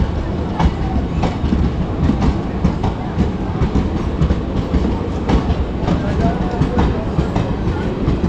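Train moving past along the track as it pulls out of the station: a steady low rumble with irregular sharp clacks of the wheels over the rail joints.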